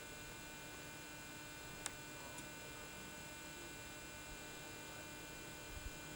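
Faint, steady electrical hum with a high whine, with a single faint click about two seconds in and a couple of soft ticks near the end.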